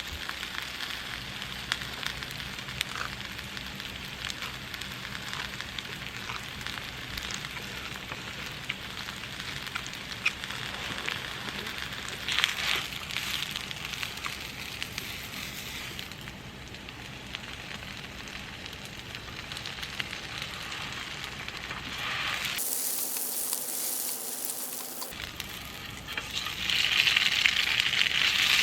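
Food sizzling and crackling in a hot pan, with many small pops, growing louder near the end.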